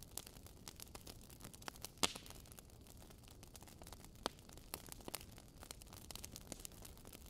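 Wood fire crackling in a fireplace: irregular sharp pops and snaps over a faint low hiss, the loudest pop about two seconds in.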